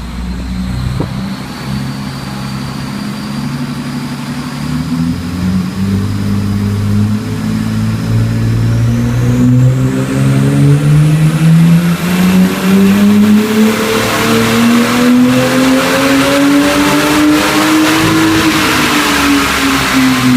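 2001 Lexus IS300's 3.0-litre straight-six (2JZ-GE) on a chassis dyno in a wide-open-throttle pull in one gear. After a few seconds at low revs, the engine note climbs steadily and grows louder for about twelve seconds, then drops as the throttle is lifted near the end. A high whine rises along with it.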